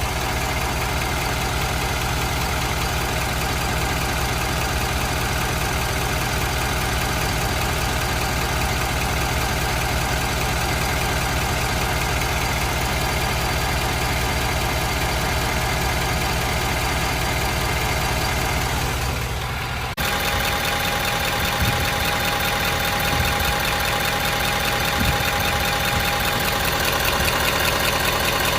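Ford F-250's diesel V8 idling steadily. The sound changes abruptly about twenty seconds in, as at a cut between two takes of the same idle.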